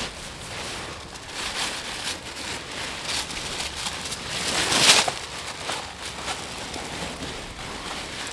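Close rustling and crinkling with scattered crackles, swelling to its loudest about five seconds in.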